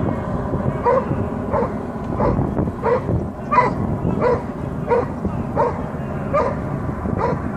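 A dog barking steadily and repeatedly, about ten barks at a regular pace, over a steady low rumble.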